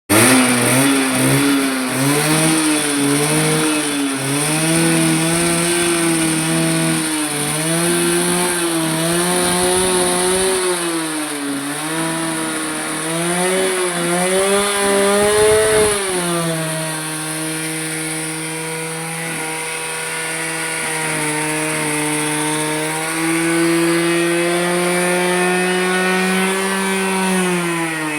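Yamaha RX100's two-stroke single-cylinder engine revved up and down repeatedly, then held at a steady high rev for the second half.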